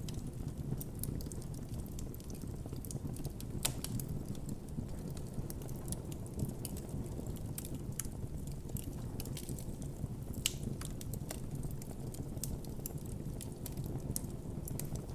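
Wood campfire burning steadily: a low rumble of the flames with constant irregular crackling and pops, a couple of sharper pops standing out.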